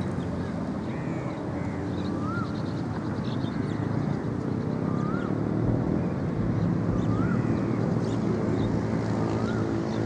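BMW E39 engine heard through its quad exhaust, running steadily with a low, even exhaust note.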